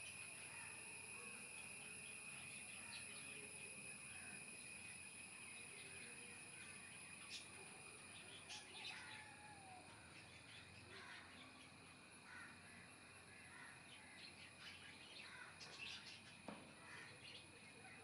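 Faint natural ambience: scattered short bird calls, a few around halfway through and again near the end, over a steady high-pitched drone.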